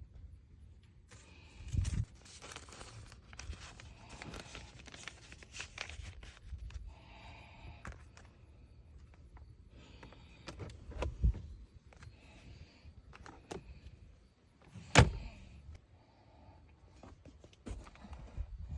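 Objects being handled and set down: ongoing rustling with occasional thuds, and one sharp knock about fifteen seconds in, the loudest sound.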